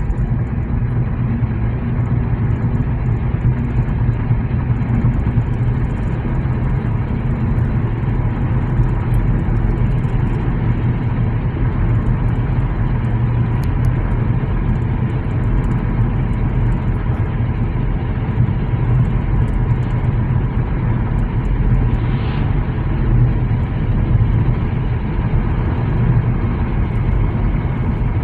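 Steady, loud low rumble of a passing diesel freight train, holding even throughout with a faint high tone on top.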